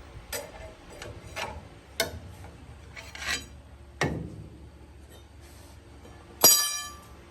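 Metal tools and engine parts knocking and scraping in a series of short sharp clinks about a second apart, then one loud ringing metallic clang near the end.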